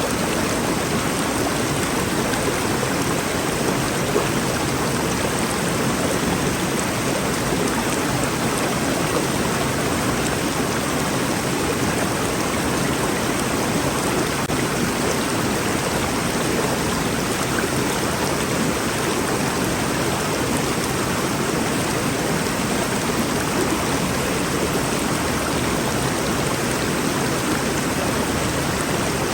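Rainforest river flowing: a steady, unbroken rush of water.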